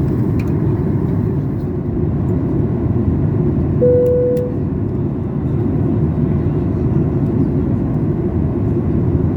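Steady cabin noise of a Boeing 737 MAX 8 in descent: airflow and engine noise, loud and even, weighted toward the low end. A short steady tone sounds about four seconds in.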